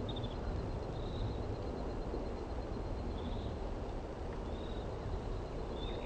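Faint, high, thin trilled bird calls, several short ones a second or more apart, over a steady low background rumble.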